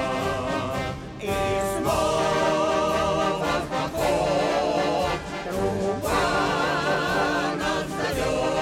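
A choir singing long held notes with a wavering vibrato over an orchestral accompaniment, the chord changing every couple of seconds.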